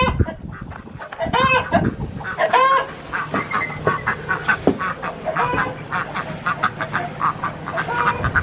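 Ducks calling: three loud honking calls in the first three seconds, then a run of many shorter, quieter calls, over a steady low hum.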